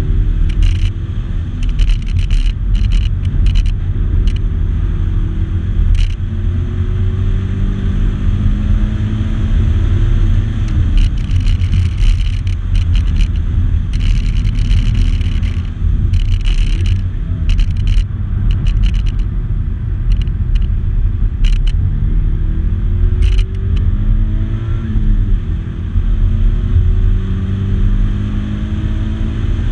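A 2014 Subaru BRZ's flat-four engine heard from inside the cabin while being driven hard on a race track. Its pitch climbs in long rises and drops back at each gear change, over a heavy low rumble. About three-quarters of the way through comes a quick run of falling and rising notes.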